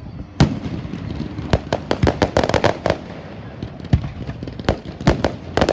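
Fireworks going off: a loud bang about half a second in, then a quick run of bangs and crackling, with thick clusters of crackle in the middle and near the end.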